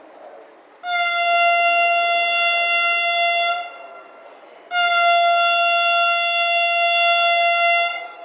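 Train horn sounding two long, steady blasts of about three seconds each, with a short gap between, over steady background noise.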